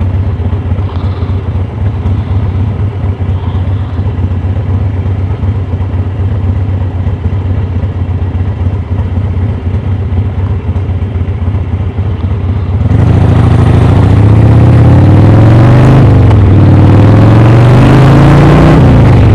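Motorcycle engine and wind rush heard from a microphone inside the rider's helmet while riding. At first it runs at a steady cruise. About two-thirds of the way through it gets louder, and the engine pitch rises and falls as the bike accelerates through the gears.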